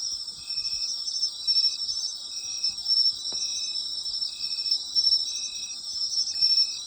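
Night insects singing in autumn: a dense, steady high-pitched chorus, with one insect calling in short, evenly spaced chirps about once a second, a steady rhythm.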